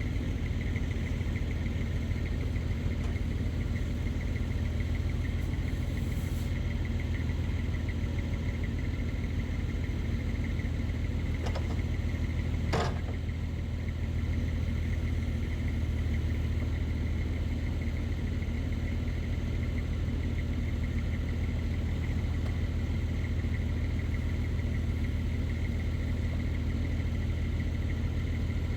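Heavy diesel engine running steadily, with a steady high whine over it and a couple of sharp clanks around the middle.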